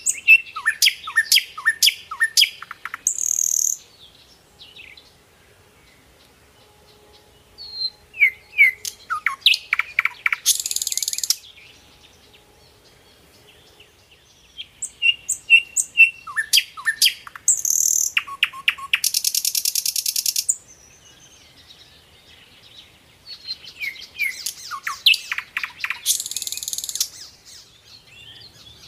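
A songbird singing in repeated bouts. Each bout is a quick series of short falling chirps ending in a harsh buzzy trill, and the bouts come about every seven seconds.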